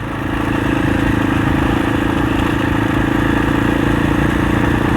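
Husaberg 650 enduro dirt bike's single-cylinder four-stroke engine running at a steady throttle, its pitch holding even, while the bike is ridden over smooth sand.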